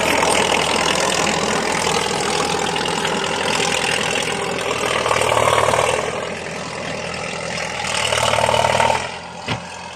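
Komatsu D50A crawler bulldozer's diesel engine running through its loud exhaust, easing off about six seconds in, picking up again, then dropping away near the end.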